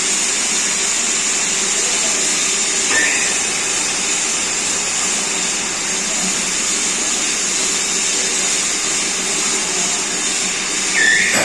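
Metal lathe running with a steady whirring hiss. A short rising sound comes about three seconds in and again near the end.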